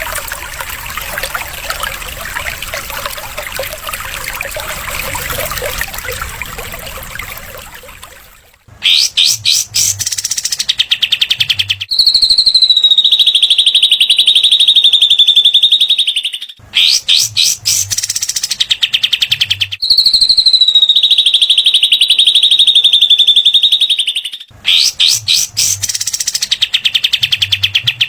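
Recorded songbird calls of cililin and katem used as a song-tutor track: for about eight seconds a dense, scratchy chattering jumble over a hiss, then alternating bursts of rapid rattling notes and long, high, steady buzzing trills, the fast 'besetan' phrases, each about three to four seconds, twice over.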